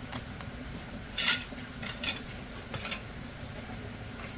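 Three short scraping sounds about a second apart, over a steady high chirring of insects.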